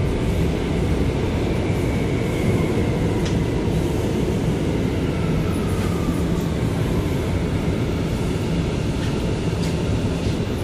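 Interior running noise of an R179 subway car on the C train: a steady rumble with a faint whine that slowly falls in pitch as the train slows.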